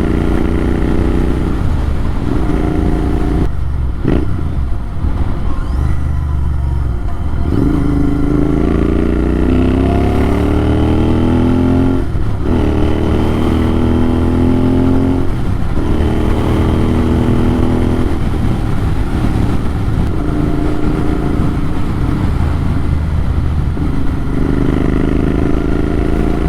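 Motorcycle engine running through an AEW TE102 aftermarket exhaust with the dB killer removed, giving its raw, unbaffled note. The revs climb in a long rise and drop off abruptly several times, about three or four seconds in, near the middle, and again a few seconds later.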